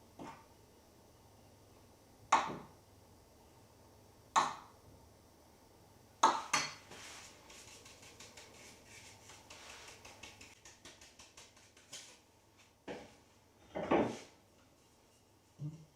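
Kitchenware being handled: a handful of sharp clanks of dishes or utensils, a second or two apart, with a stretch of small rapid clicks and clinks between them.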